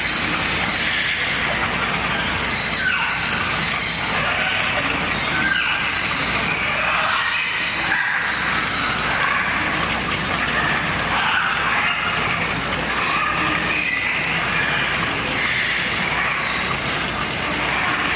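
Many birds calling at once: short, high, overlapping calls over a continuous din.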